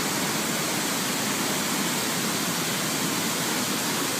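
Floodwater rushing in a steady, unbroken roar of water.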